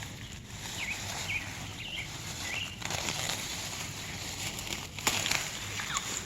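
A bird chirps several times in quick short calls during the first few seconds over outdoor background noise. About five seconds in comes a loud burst of rustling, like weeds or leaves being pushed about.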